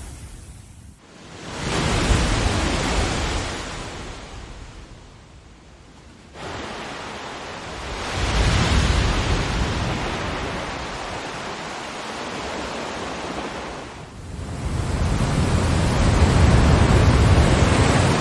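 Ocean waves washing in: three surges of surf, each swelling up and then fading back.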